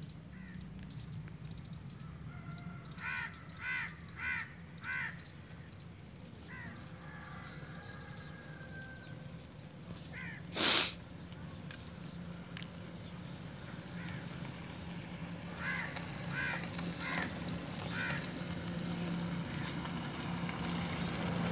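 A bird calling: a run of four short calls about three seconds in and another four about sixteen seconds in. A short loud noise comes near the middle, over a low steady hum.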